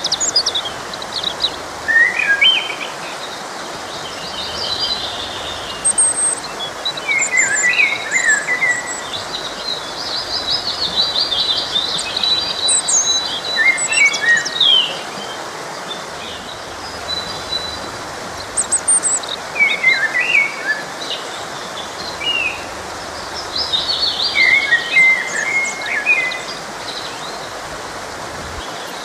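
Birds chirping and singing in short, repeated phrases over the steady rushing of a flowing forest stream.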